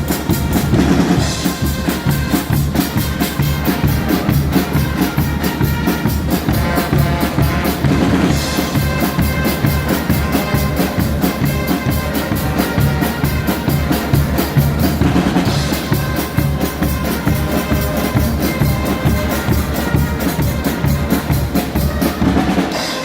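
Guggenmusik carnival band playing: brass over a driving drum section with a steady, fast beat.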